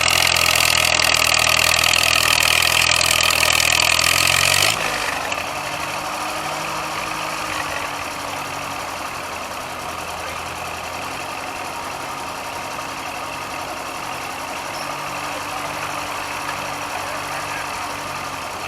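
Gas farm tractor engine running loudly. About five seconds in, the sound drops abruptly to a quieter, steady engine idle.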